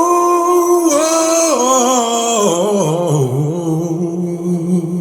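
A Warzone WZ69MW 6x9 marine car speaker playing music loudly at full amp volume during a sound test. A male voice sings a long held "whoa," slides down in pitch about halfway through, then holds a lower note.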